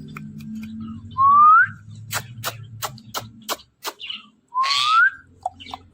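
Indian ringneck parrot giving two loud rising whistles a few seconds apart. Between them comes a quick run of about six sharp clicks, and a few short chirps follow near the end.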